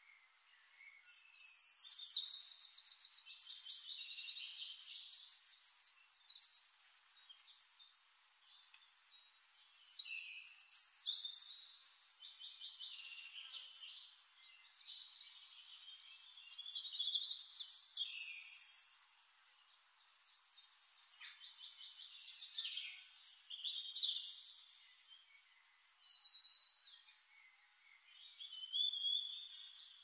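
A songbird singing in high-pitched bouts of a few seconds each: rapid trills and chirps, with short pauses between phrases.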